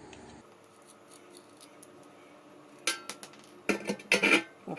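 Faint room quiet, then about three seconds in a sharp click followed by a short run of light metallic clinks and scrapes, as a small metal fitting is tried in a hole in a metal tray.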